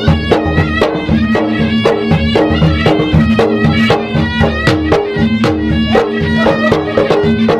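Traditional South Sulawesi gendang drum ensemble playing fast, dense, driving drum strokes, with a reedy wind instrument holding a melody over a steady drone.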